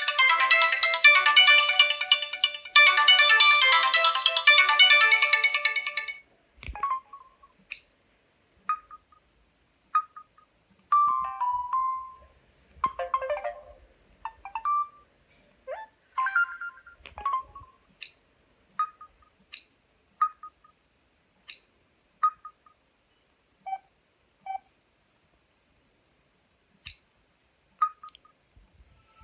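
Samsung GT-S5230W mobile phone ringtones playing through the phone's speaker. A dense, many-note melody stops suddenly about six seconds in. A sparse tone follows, made of short, scattered bleeps and chirps.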